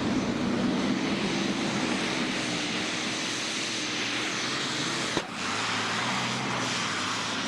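Modified pulling tractor's engine running loud and steady at high power. About five seconds in the sound breaks off with a click and picks up again.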